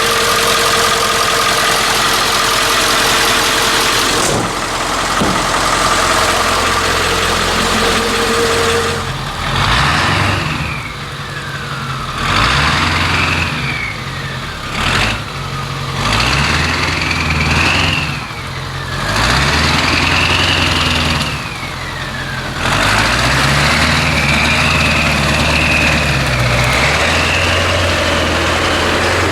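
7.3-litre Powerstroke turbo-diesel V8 in a 1976 Ford F600 running steadily with a held whine, then, about nine seconds in, revved in a series of about five pulls, the turbo whistle rising and falling with each one.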